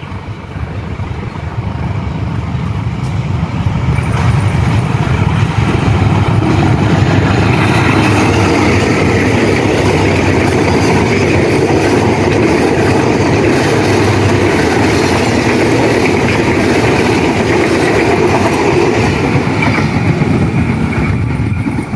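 Passenger train hauled by a CC203 diesel-electric locomotive passing close by. The sound grows over the first few seconds as it approaches, then the coaches' wheels run steadily along the rails, easing off near the end.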